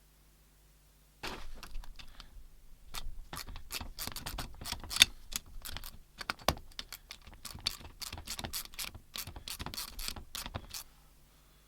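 A rapid, irregular run of sharp clicks and light taps, starting about a second in and stopping shortly before the end.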